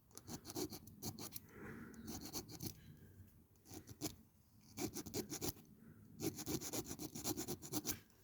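Faint rasping strokes of a hand file on the metal axle of a diecast toy, coming in irregular runs with short pauses, as the axle is worked off.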